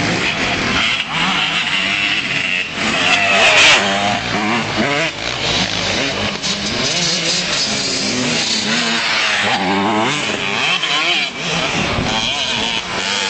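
Motocross motorcycle engines revving up and down over and over as the bikes ride the track, loudest about three and a half seconds in.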